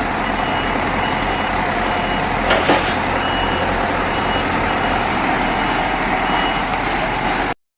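Reversing beeper sounding in repeated beeps over a steady motor noise, with a brief knock about two and a half seconds in.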